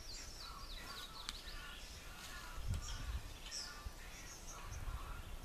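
Outdoor ambience of wild birds chirping and calling in repeated short notes, with a couple of brief low rumbles.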